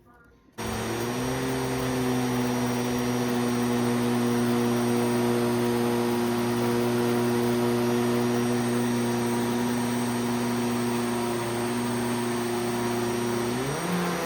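Vacuum cleaner switched on about half a second in, then running with a steady motor whine and hiss; its pitch shifts near the end.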